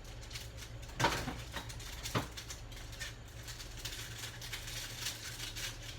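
Kitchen handling sounds: two sharp knocks a little over a second apart, then light clicking and rustling, over a steady low hum.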